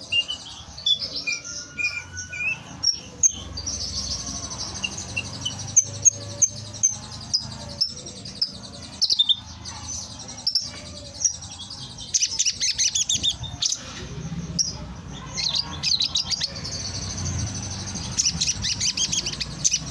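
Javan bush larks (branjangan) singing hard in their cages: a fast, varied stream of high chirps and whistles, breaking into rapid trills about twelve seconds in and again near the end, over a low background rumble.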